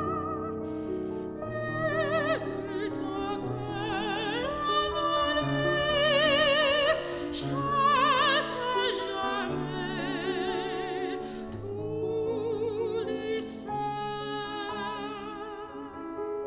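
A classical soprano singing an art song with wide vibrato over piano accompaniment. She holds long notes, rising to a louder passage about six to eight seconds in, with the piano playing on beneath.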